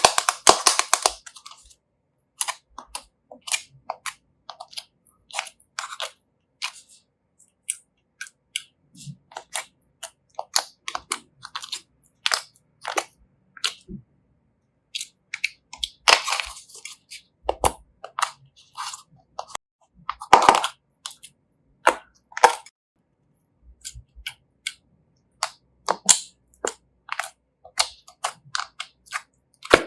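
Slime being squeezed and pressed by hand, giving irregular sharp clicks and crackling pops. Louder bursts of crackle come at the very start and twice more, about halfway through and shortly after.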